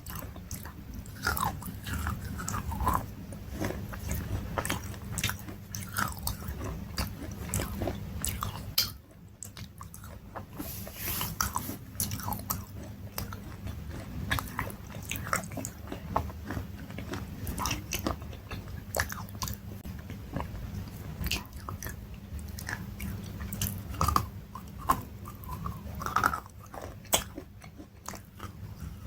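Close-miked crunchy biting and chewing of food, a dense run of crisp crackles and crunches that goes on throughout.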